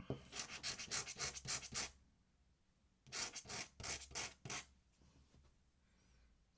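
Pen scratching across paper in quick back-and-forth strokes: a run of about ten strokes, a short pause, then about six more.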